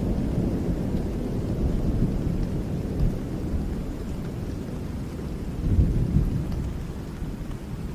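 Rolling thunder rumbling over steady rain, swelling about three seconds in and again near six seconds, then slowly dying away.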